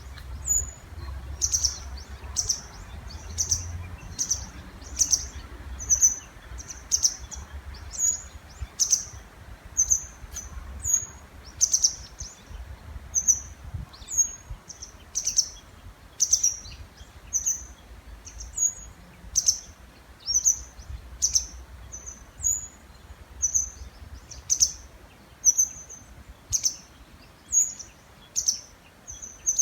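A songbird calling without a break in the breeding season: short, high chirps repeated about twice a second, over a faint low rumble.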